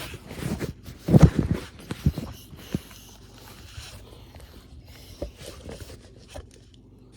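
Irregular rustling, knocks and clicks, loudest in a cluster about a second in, then a few scattered smaller clicks.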